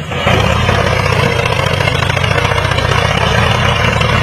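A motor running steadily, with a brief dip right at the start.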